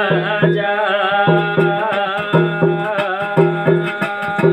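Garhwali jagar music between sung verses: drums beat a steady rhythm under a held, sustained melody line.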